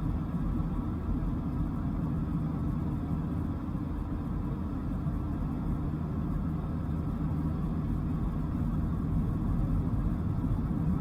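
Dodge Viper GTS's V10 engine running at a steady cruise, a low drone mixed with road noise, growing slightly louder near the end.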